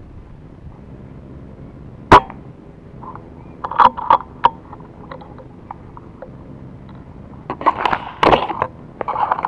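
A single sharp crack of a Weihrauch HW100 PCP air rifle shot about two seconds in. Then come two clusters of short clicks and rustles, around four seconds and again near the end.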